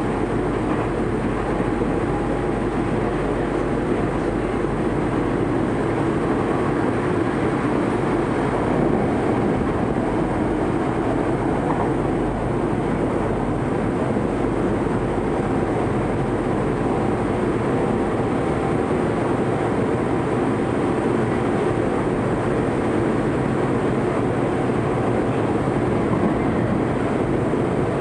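Tokyo Metro 03 series electric train heard from inside the car while running at steady speed. Its steady running noise of wheels on rail and traction equipment holds an even level throughout, with no distinct rail-joint clicks.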